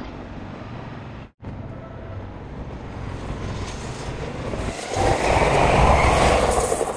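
Trains running on the tracks with a steady rumble, cut off for an instant about a second in. Near the end a passing train swells to the loudest point, then fades.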